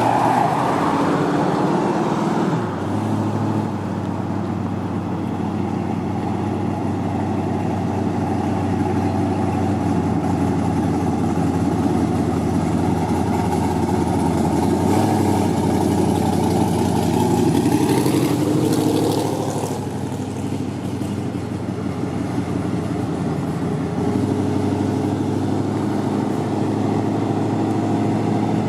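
Car engine running steadily near idle, with a brief rise in revs and noise about two-thirds of the way through.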